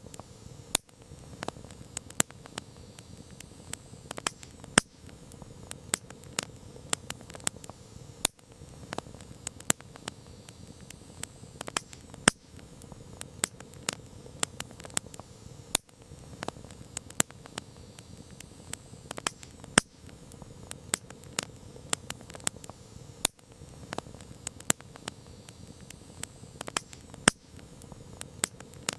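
Wood campfire crackling: frequent irregular sharp pops and snaps over a soft steady hiss of burning.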